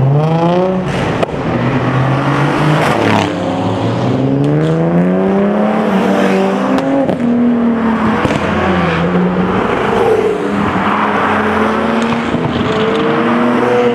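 High-performance car engines revving and accelerating away. Their pitch climbs and drops several times, with more than one engine overlapping.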